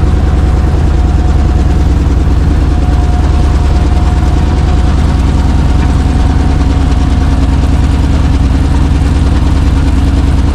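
Chevrolet C60 wrecker's engine idling steadily, loud and close, with an even rapid pulse.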